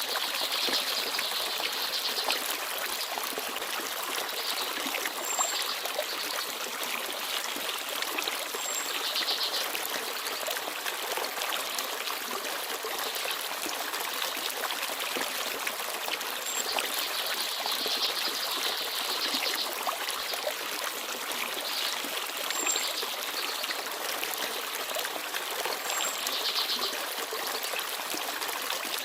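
A small forest stream babbling and trickling steadily over stones. Small birds chirp now and then, with short high chirps every few seconds over the water.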